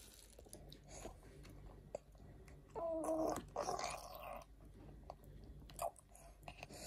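Quiet chewing and small mouth clicks of someone eating, with a brief voice sound about three seconds in, followed by a breathy noise.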